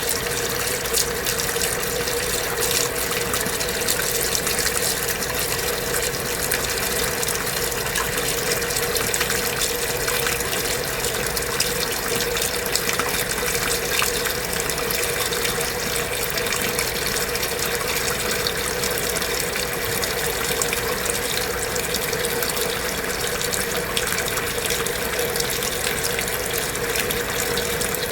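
Kenmore belt-drive portable washing machine running mid-cycle, with a steady rush of water and a constant hum underneath.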